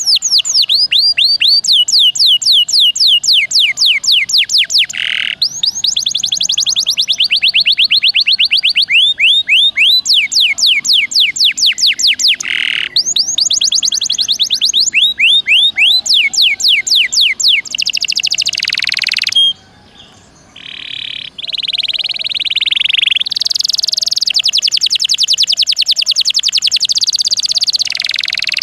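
Domestic canary singing in long, fast trills: each trill is a run of quick downward-sweeping notes repeated many times a second, changing speed and pitch from phrase to phrase. In the second half the song turns to harsher, buzzy rolls, with a short break about 20 seconds in.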